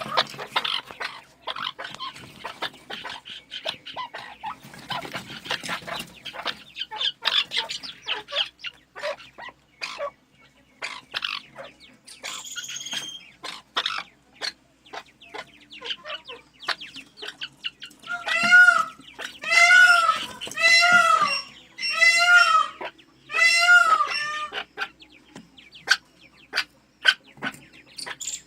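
Captive birds calling: a steady patter of short clucks and chirps, then, about two thirds of the way in, a series of loud calls, each rising and falling in pitch.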